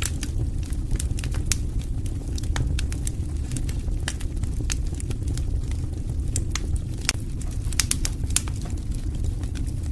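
Wood fire burning steadily, with a low rumble and frequent irregular sharp crackles and pops of burning logs.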